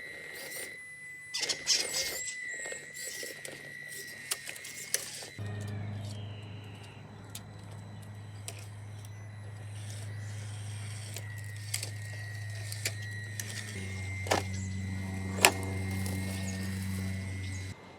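Small RC crawler running, its electric motor and gears giving a steady high whine with plastic clicks and knocks. About five seconds in, a steady low hum starts abruptly, and it stops just before the end with a few sharp clicks over it.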